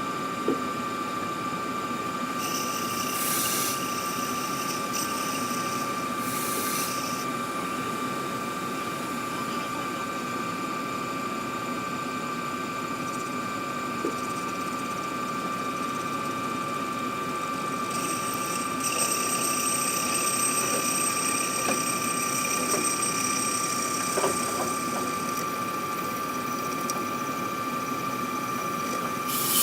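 A machine tool running with a steady whine while a -10 AN drain fitting is machined out to a larger inside diameter. Brief hissing cutting noise comes twice early on, and a longer stretch starts about 18 seconds in, with a few single clicks.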